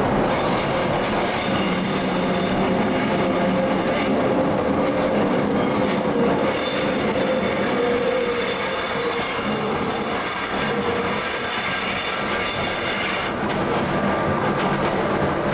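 A passing train's wheels squealing against the rails, a high ringing screech that holds for most of the stretch and cuts off about thirteen seconds in. Under it runs the steady rush of a stream.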